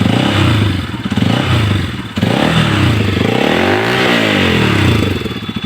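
Bajaj Pulsar RS200's single-cylinder engine revved repeatedly through a loud full-system aftermarket exhaust, the pitch rising and falling about five times.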